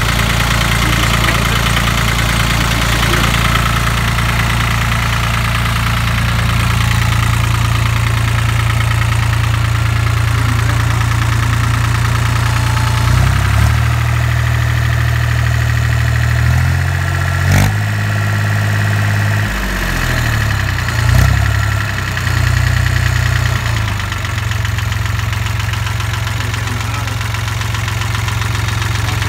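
International 274 offset tractor's Nissan three-cylinder diesel running. Engine speed steps up and down several times in the middle, with a sharp click about halfway, then settles back to a steady idle.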